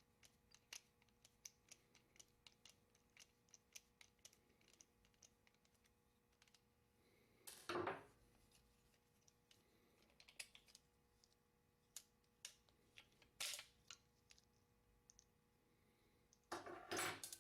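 Faint, scattered clicks and light metal knocks of small parts being handled as the creaser arm assembly is worked out of a Columbia automatic drywall taper's head. There is a louder knock a little before halfway, another about three quarters in, and a cluster near the end.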